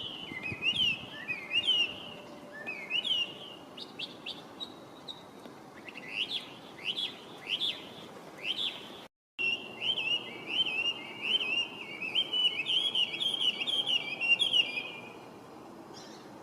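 Chinese hwamei (Garrulax canorus) singing: loud, clear whistled phrases, each repeated several times in a series, gliding up and down. The song breaks off for a moment about nine seconds in, resumes as a faster run of phrases, and stops about fifteen seconds in.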